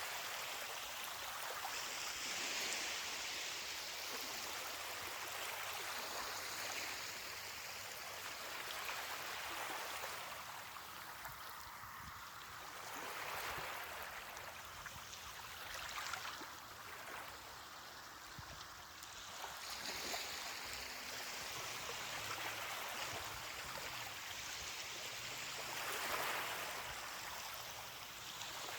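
Ocean waves breaking on a beach: a steady hiss of surf that swells and falls back every few seconds.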